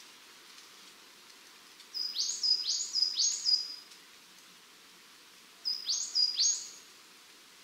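A small bird calling in two short runs, three quick high notes and then two, each note a brief whistle that jumps into a fast rising glide. A steady faint hiss of open-air background lies underneath.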